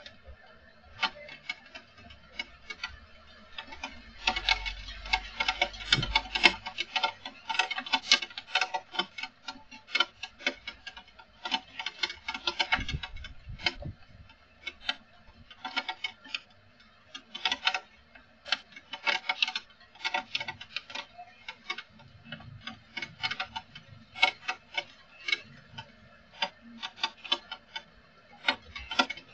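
Heavy rain falling, heard as dense, irregular ticks and taps of drops striking a hard surface close to the microphone, thickest a few seconds in. A brief low rumble comes with the heaviest patch.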